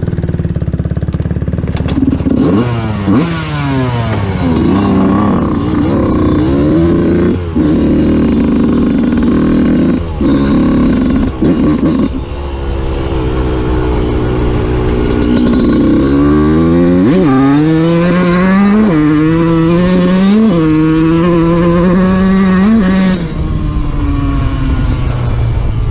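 Dirt bike engine revving up and falling back several times, then accelerating through the gears: the pitch climbs and drops back at each of about four upshifts before easing to a steady lower run near the end.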